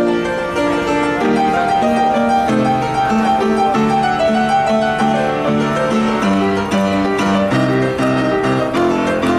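Acoustic piano playing classical music: a running melody over steadily changing bass notes.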